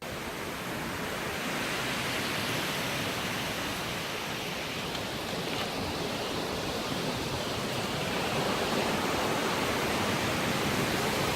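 Windstorm wind outdoors: a steady rushing noise that grows a little louder near the end.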